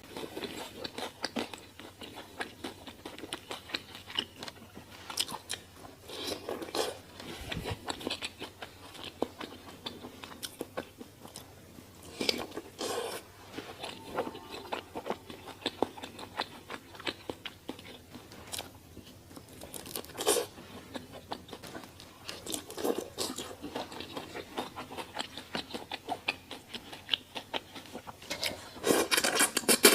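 Close-miked eating: a person biting and chewing crunchy food, with many small crackling crunches and louder bursts of crunching every few seconds.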